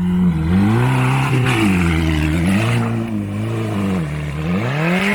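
Dacia car engine with an aftermarket FI exhaust, revving up and down several times as it is driven hard off-road. The engine note dips and climbs again about four times and climbs sharply near the end.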